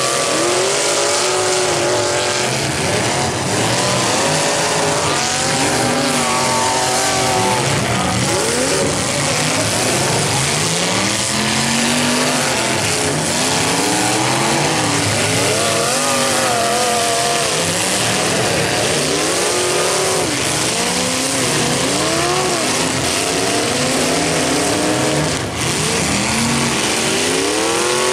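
Several demolition derby cars' engines revving up and down at once, their overlapping pitches rising and falling over a steady wash of noise.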